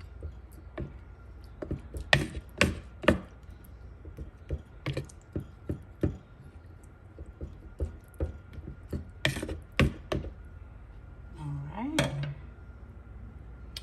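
Irregular clicks and knocks of kitchen utensils and containers being handled during food preparation, with several sharper clacks among them, over a faint steady tone.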